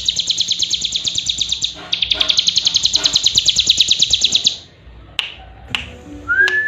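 Hill prinia (cigun) singing a fast, even rattling trill. It breaks off briefly near two seconds in, then stops about four and a half seconds in. A few sharp clicks and one short rising whistle follow near the end.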